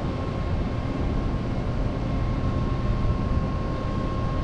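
Steady mechanical drone: a low rumble with a constant thin high whine over it.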